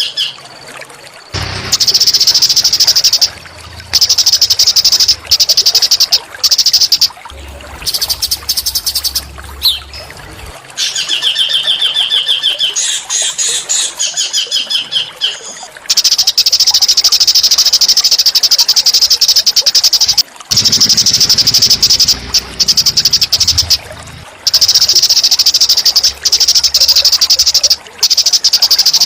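Small songbirds giving loud, rapid buzzing trills in bursts of one to several seconds with short breaks, and a different, lower rattling trill for a few seconds in the middle, played as training song for magpie-robins.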